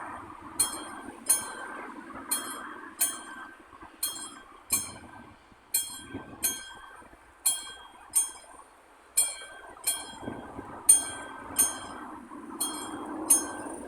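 Classic electric warning bell of an AŽD-71 level crossing striking in pairs of ringing metallic dings, about 0.7 s apart with a pair every 1.7 s or so: the crossing is activated for an approaching train. A steady noise runs underneath, thinning around the middle and swelling again near the end.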